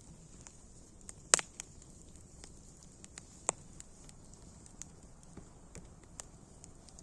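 Wood fire crackling: scattered sharp pops over a soft steady hiss, the loudest pop just over a second in and another about three and a half seconds in.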